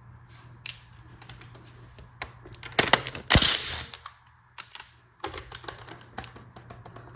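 Socket ratchet clicking in quick irregular runs as a spark plug is worked loose from the cylinder head, with a louder metal clack about three seconds in.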